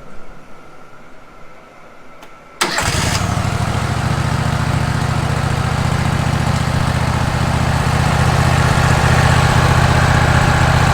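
Wood-Mizer LT15 sawmill's engine coming in suddenly about two and a half seconds in and then running steadily, growing a little louder in the second half.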